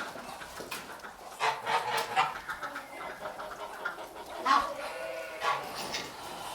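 Chicken clucking in short bursts, a cluster about a second and a half in and another around four and a half seconds in.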